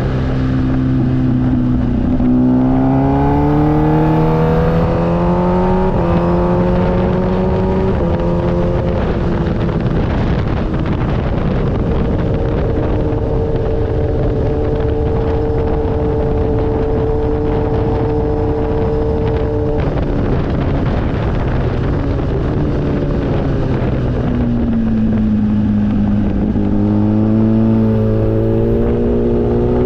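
Motorcycle engine pulling up through several gears with a shift every few seconds, then holding a steady speed for several seconds, easing off so the pitch falls, and pulling away again near the end, with steady wind noise underneath.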